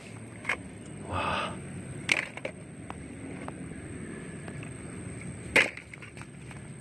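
Small plastic toy cars being handled and knocking against each other: a few sharp clicks, the loudest about five and a half seconds in, with a short rustling rush about a second in.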